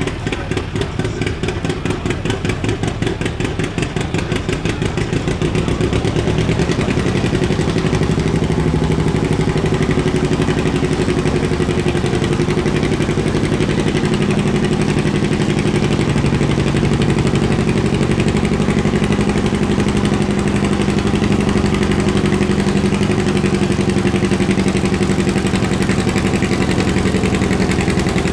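John Deere pulling tractor's engine running hard under full load during a pull. Its fast firing pulses grow louder over the first several seconds, then hold steady.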